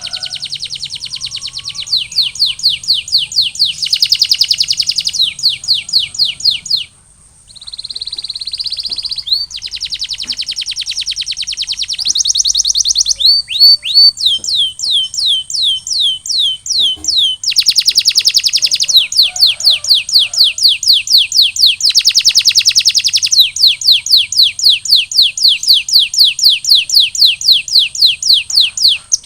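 Male canary singing in long rolling trills: fast runs of rapidly repeated high notes, changing to a new phrase every second or two, with a brief pause about seven seconds in.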